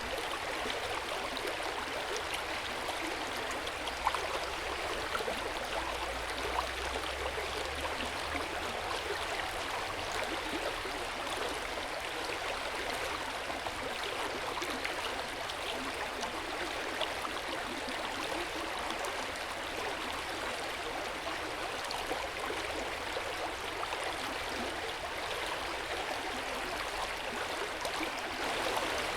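Hot-spring water running and splashing into an open-air bath, a steady, gentle water sound with a few small drip-like ticks.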